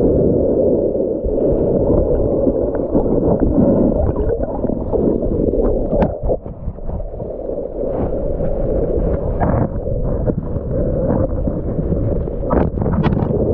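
Fast-flowing river water running loudly close to the microphone, a steady low noise, with a few short sharp knocks, one about six seconds in and a couple near the end.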